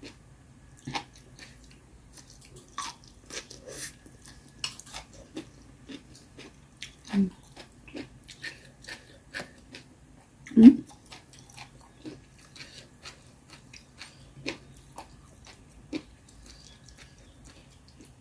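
A person eating close to the microphone: irregular chewing and mouth smacks. Two louder ones come about 7 and 10.5 seconds in.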